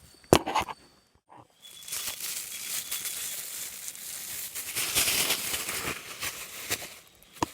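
A sharp knock, then about five seconds of rustling and crinkling noise.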